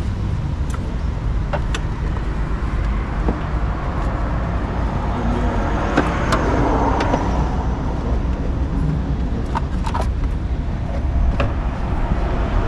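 Steady low hum of a motor vehicle engine running, with a broad swell of noise about six to seven seconds in as if a vehicle passes. Several sharp clicks and knocks of hands working among engine-bay hoses and parts.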